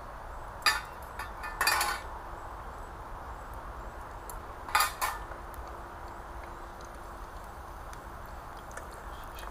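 Metal cooking utensils clattering against a frying pan: a short clink, a longer rattle a second later, then two quick clinks together about five seconds in, over a steady low rushing noise.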